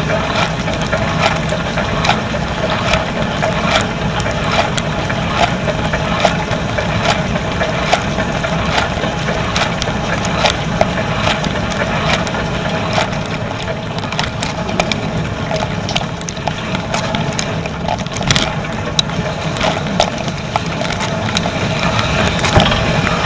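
Dishwasher running a wash cycle, heard from inside the tub: a steady pump hum under constant spraying water, with frequent sharp spatters and clicks of water striking the inside of the machine.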